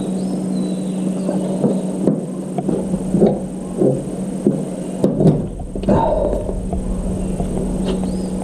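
Electric mixer motor running with a steady hum, with scattered knocks and clicks from handling.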